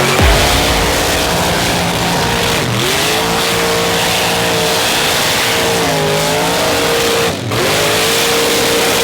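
A mud truck's engine running at high revs, its pitch dropping briefly and climbing back a few times, with a short break in the sound about seven and a half seconds in.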